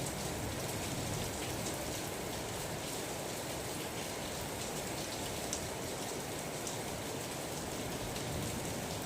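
Steady rain falling on a surface, an even hiss with separate drops ticking through it.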